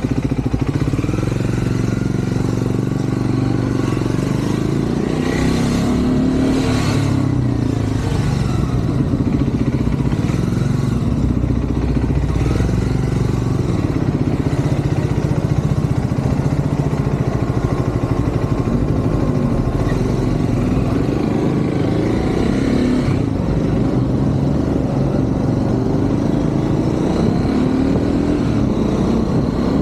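Triumph Scrambler 400 X's single-cylinder engine heard from the saddle while riding in city traffic, its pitch rising and falling with throttle and gear changes. A few brief rushes of traffic noise pass by.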